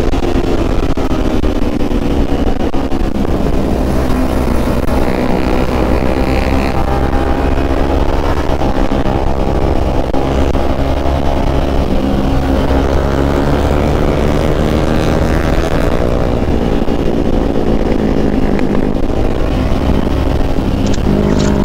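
Kawasaki ZX-25R's 250 cc inline-four engine running at speed, its pitch rising and falling gently with the throttle, over heavy wind rumble on the microphone.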